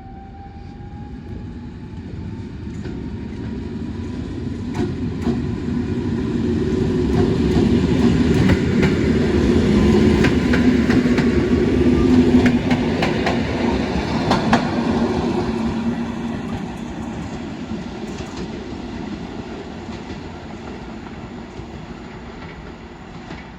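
A train passing on the rails: its rumble grows louder to a peak about halfway, with the wheels clacking over rail joints, then fades away as it moves off.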